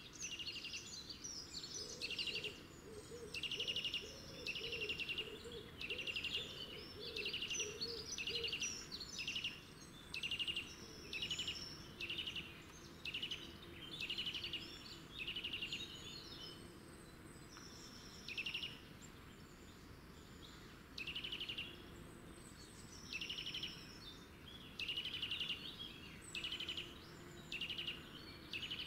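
Small birds singing: short high phrases repeated every second or so, over a steady low outdoor background noise.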